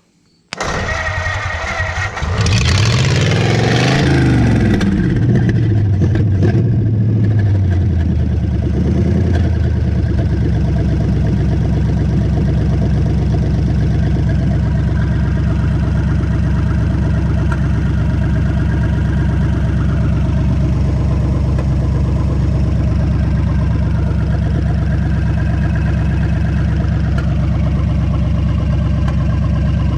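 Hotwired 1951 Ford F1's flathead V8 cranked on the starter with a little choke, catching about two seconds in. It revs up and down, then settles into a steady idle by about ten seconds in.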